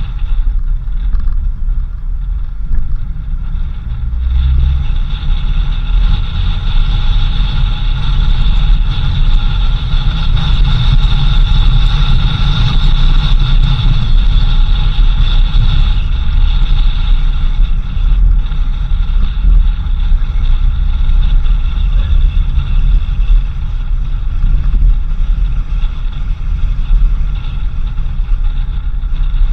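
Car driving: a steady low rumble of engine and tyres, with a steady high whine over it.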